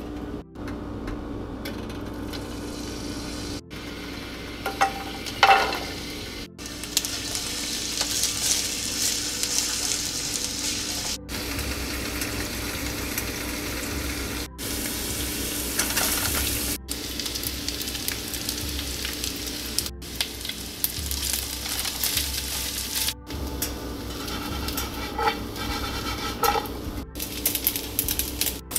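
Garlic and sliced onion sizzling in olive oil in a hot nonstick frying pan, then rice being stirred and fried in it. The sizzle grows louder from about seven seconds in and breaks off briefly several times, and one brief louder knock comes about five seconds in.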